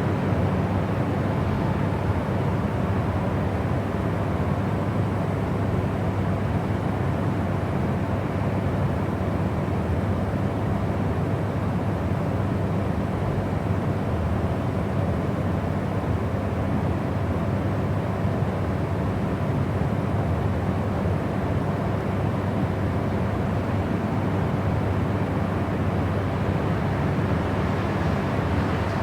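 Steady white-noise track: an even, unchanging rushing noise, heavier in the low and middle range than in the highs.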